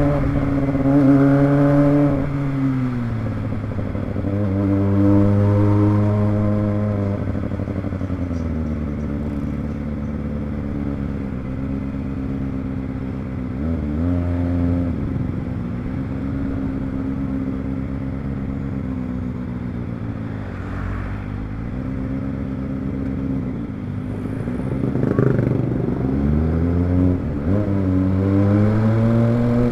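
Kawasaki ZX25R's 250 cc inline-four engine under way, its pitch climbing and falling several times as the bike accelerates, shifts and eases off, with a longer steady stretch in the middle.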